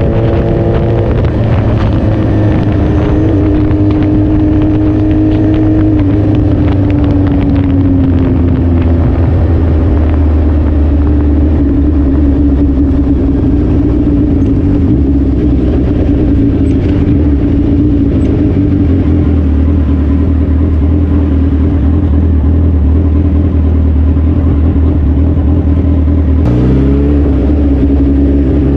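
Suzuki Hayabusa inline-four engine running under way. Its pitch drops about a second in and again at about seven seconds, holds steady at cruising revs for a long stretch, then climbs as the bike accelerates about two seconds before the end.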